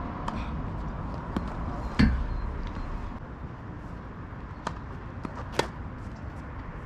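Tennis ball struck by rackets and bouncing on the court during a doubles rally: a series of sharp pops at uneven intervals, the loudest about two seconds in with a dull thump under it.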